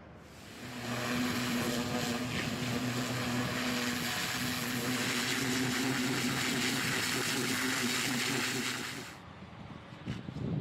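Pressure washer running: a steady motor hum under a strong hiss of spray. It starts about half a second in and cuts off abruptly about a second before the end.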